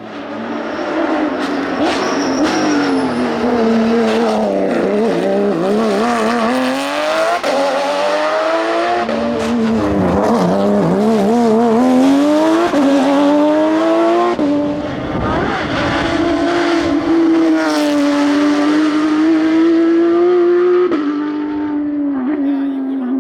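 Hillclimb race car's engine revving hard, its pitch climbing and dropping repeatedly through gear changes and lifts. A rougher, noisier stretch comes around two-thirds of the way through.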